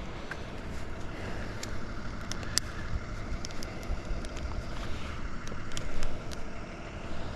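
Tree climber's rope and gear moving during an ascent: steady rustling and rumble with scattered light clicks, and a brief louder swell about six seconds in.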